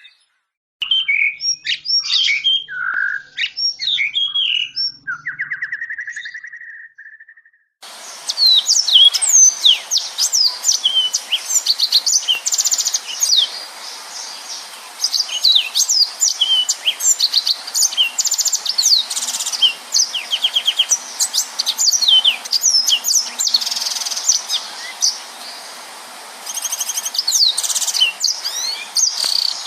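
Yellow-fronted canary (Mozambique canary) singing. A short phrase ends in a fast trill, then from about eight seconds in comes a long, dense run of rapid high chirps and whistles with hardly a break, the tight 'nembak' style of song.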